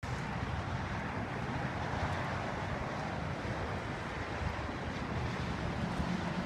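Twin-turbocharged Harley-Davidson FXDR's 114 cubic inch V-twin running steadily, a low rumble with a steady rushing hiss over it.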